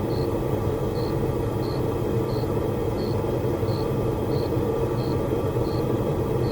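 Blacksmith's forge fire with its blower running, a steady low roar, while a chain link heats to forge-welding temperature. A short high chirp repeats about every 0.7 seconds throughout.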